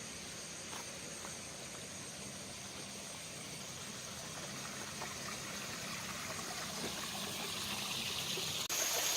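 Flowing water of a river and waterfall: a steady rushing hiss that slowly grows louder, then jumps louder at a cut near the end.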